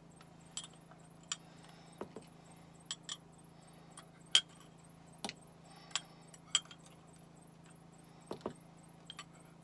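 A metal spoon clinking and tapping against a small container while spices are measured and scraped back, about a dozen sharp, irregular clinks, the loudest about four seconds in, over a faint steady hum.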